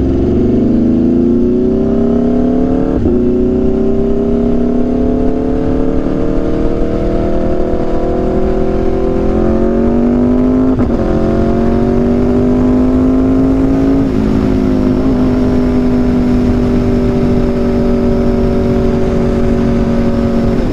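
Aprilia RSV4's V4 engine through an SC-Project CRT exhaust, accelerating under way: the pitch climbs through the gears with three upshifts, about 3, 11 and 14 seconds in, then holds steady at a cruise.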